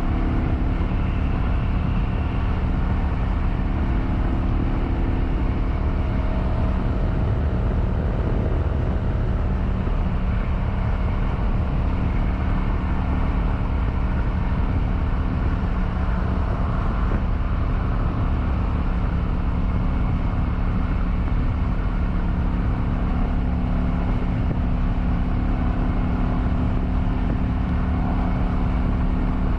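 Kawasaki Vulcan 900's V-twin engine running steadily at cruising speed, with wind rush on the helmet microphone.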